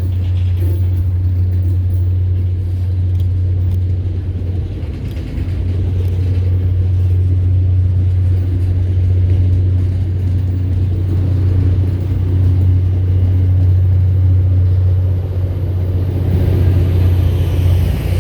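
Diesel locomotive running past with a loud, steady low rumble, and a brighter rushing sound building near the end as the train draws closer.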